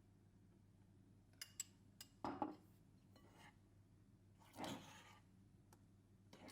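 Quiet handling of small objects: a few light clicks, a short knock and clatter about two seconds in, then a brief scraping rub near the five-second mark.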